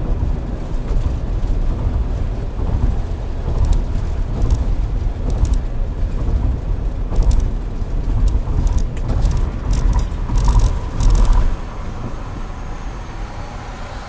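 Road and engine rumble of a moving car, recorded by a dashcam microphone inside the cabin, with uneven low buffeting that drops away sharply about eleven and a half seconds in.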